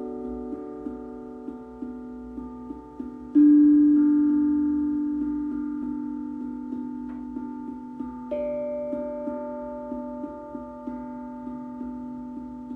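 Steel tongue drum (glucophone) played slowly: a new note of a different pitch is struck about every five seconds, twice in all, and each rings out and fades slowly. Faint light ticks sound between the notes.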